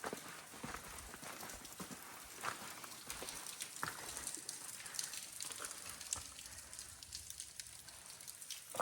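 A hiker's footsteps crunching along a trail, irregular steps and scuffs over a faint steady hiss.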